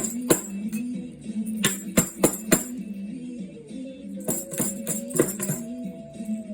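Tambourine shaken and struck in irregular clusters of jingling hits, over a low wavering melody with a higher held note in the second half.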